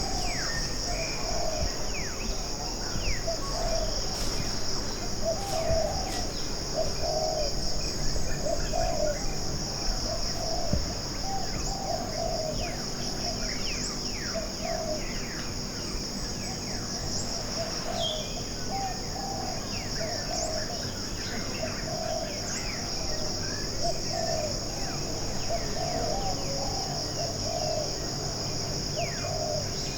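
Tropical forest ambience: a steady, high-pitched insect drone runs throughout. Over it, a low call repeats about once a second, and short bird chirps are scattered through.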